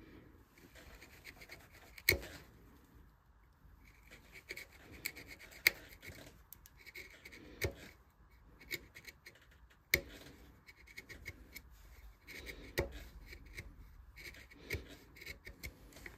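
Hand carving tools cutting and scraping into wood in short, irregular strokes, with a few sharp clicks where the tool catches or is set down.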